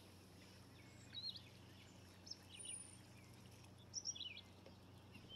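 Near silence outdoors, with a few faint, short bird chirps scattered through.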